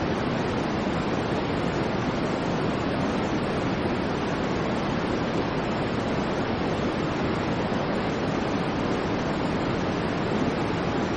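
Steady, unchanging electronically generated noise from a white-noise sleep track: an even rushing hiss, fullest in the low-middle range and thinner in the highs, with no events or changes.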